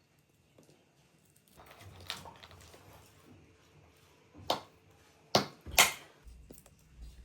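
Rustling handling noise, then three sharp knocks or clacks over about a second and a half, the loudest near the end; a low hum comes in after them.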